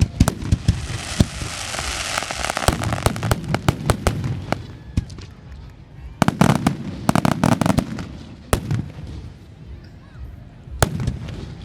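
Fireworks going off in quick succession: sharp bangs and crackling, densest in the first few seconds and again in a cluster of loud bursts a little past the middle.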